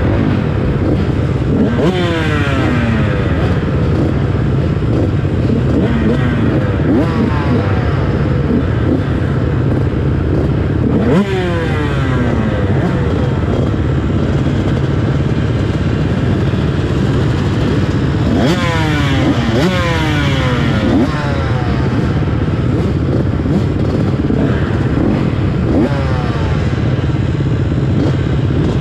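Motocross bike engines racing at full throttle, the pitch sweeping up and down repeatedly as the riders rev and shift through the gears.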